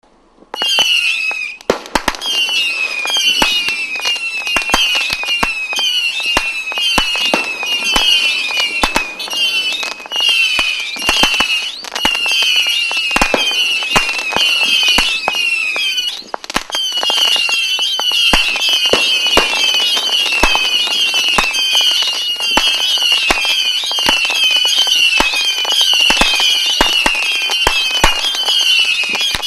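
A firework battery (cake) firing continuously: a rapid stream of overlapping shrill whistles, about two a second, mixed with sharp cracks and bangs. It starts about half a second in and barely pauses once midway.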